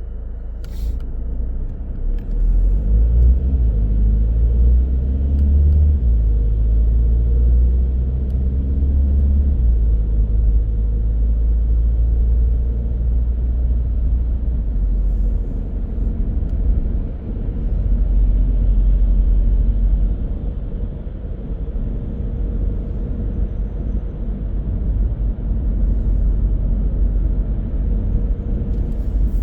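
Car driving on the road: a steady low rumble of engine and tyres. The engine note climbs a couple of times in the first ten seconds as the car accelerates, then holds steady at cruising speed.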